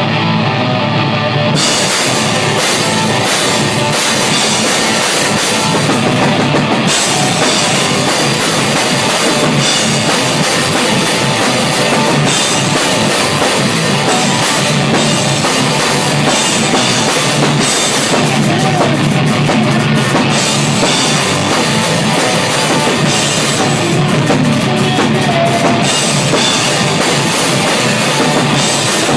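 Heavy rock band playing at full volume, heard raw from a camera at the drum kit, so the drums are loudest. Cymbals come in about a second and a half in and keep crashing through the playing.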